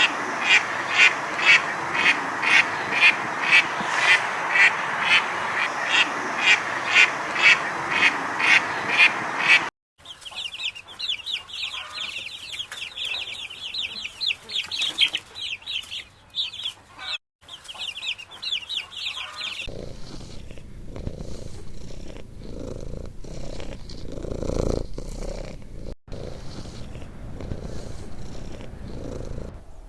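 Animal calls in three successive stretches: first dense calling that pulses about twice a second, then high, rapid chattering calls, then lower, rougher sounds.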